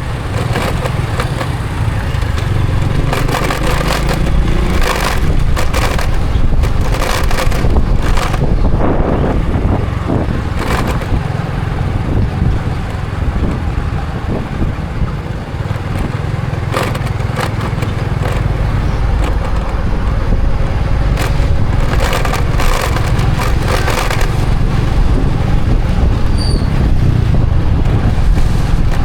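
A Honda Supra X 125 FI motorcycle's single-cylinder four-stroke engine running steadily while riding, mixed with wind and road noise. Clusters of short crackling bursts come a few seconds in and again about two-thirds of the way through.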